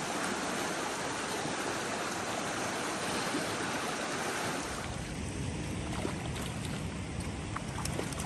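Steady rushing of river water, the sound growing deeper and less hissy about five seconds in, with a few faint clicks near the end.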